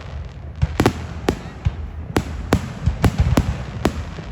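Fireworks display: a string of sharp bangs at an uneven pace, about seven in three and a half seconds, starting a little under a second in, over a steady low rumble.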